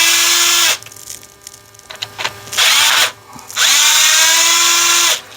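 Power screwdriver backing screws out of a plastic instrument-cluster housing. The motor whines in three runs: one ending just under a second in, a short one near the middle, and a longer one near the end. Each winds up and spins down, with small clicks in between.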